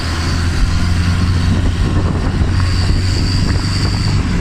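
Car driving along a road: steady low engine and road rumble, with a faint high whine that fades in and out.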